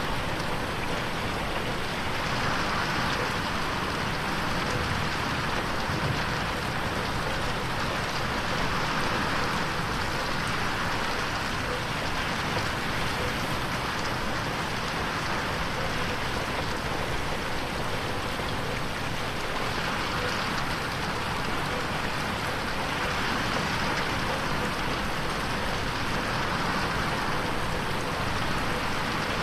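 Steady rain falling against a window glass, a dense even hiss that swells and eases gently every several seconds.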